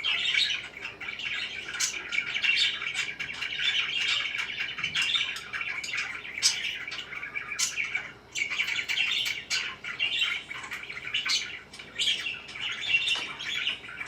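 Pet parakeets chirping and chattering without a break, with sharp high chirps scattered through and a short lull about eight seconds in.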